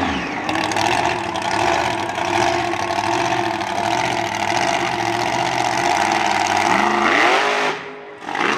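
Monster truck engine held at high revs, rising in pitch about seven seconds in, then easing off sharply just before the end.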